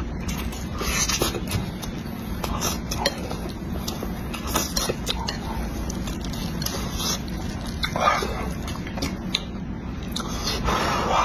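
Close-miked open-mouth chewing of spicy instant noodles and sausage: wet smacking and mouth clicks, with a longer, noisier mouth sound near the end.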